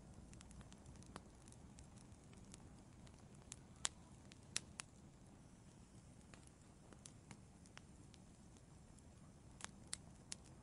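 Wood fire in an outdoor fireplace crackling: faint, scattered snaps and pops at irregular intervals, a few louder ones about four seconds in and again near the end, over a low steady rumble.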